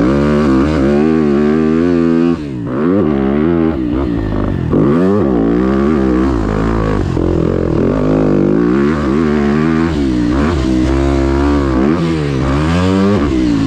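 Motocross dirt bike with an aftermarket Rocket exhaust revving hard on a lap of the track, its pitch climbing and dropping again and again as the rider accelerates, shifts and rolls off for the turns.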